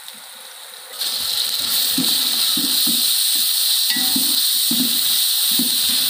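Loud sizzling of ginger-garlic paste frying in hot oil with onions in an aluminium pot, starting suddenly about a second in. Under it, a metal spoon stirs and scrapes the pot several times.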